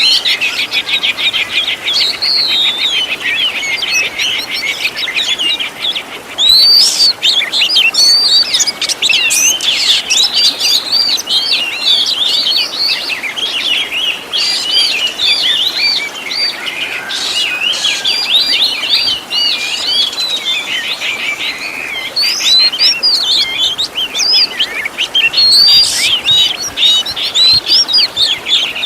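Oriental magpie-robin (kacer) singing a long, varied song, mimicked fill-in phrases included. It opens with a fast rattling trill, then runs into rapid chirps and whistled phrases.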